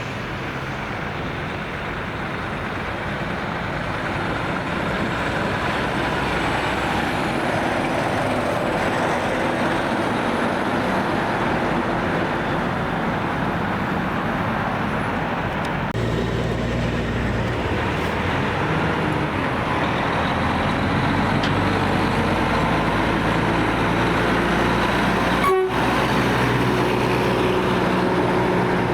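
Semi-truck traffic: tractor-trailers rolling past with tyre and road noise, joined about halfway by a steady diesel engine drone.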